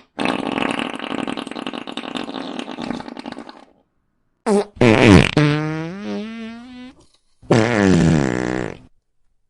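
A run of fart sound effects: a long, rough sputtering one lasting about three and a half seconds, then after a short gap a quick pop, a long pitched one that drops in pitch and then wavers, and a shorter pitched one near the end.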